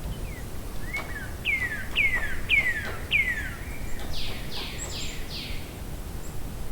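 A songbird sings one phrase: four clear notes that each fall in pitch, followed by four harsher, buzzier falling notes, over a steady background hiss.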